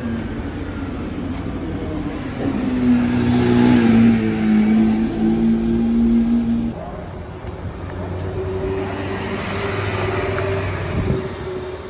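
Car engines running at steady, moderate revs. One engine note holds for a few seconds, breaks off suddenly a little past halfway, and a different, higher engine note follows.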